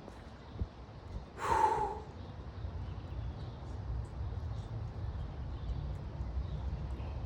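A man's short, forceful breathy exhale or groan about a second and a half in, a reaction to the cold water of a cold plunge. A steady low rumble runs underneath.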